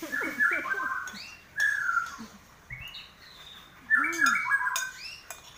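A bird chirping in several short bursts of quick falling notes, the loudest near the start and again about four seconds in, with a few light clicks of spoons on plates.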